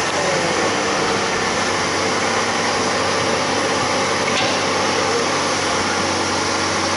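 Excavator engine running with a steady, unbroken drone.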